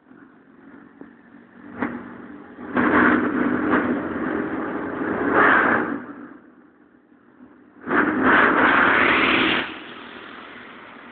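Motorbike engine running on the road with a steady low hum, getting much louder twice, for a few seconds each time, with a rushing noise over it.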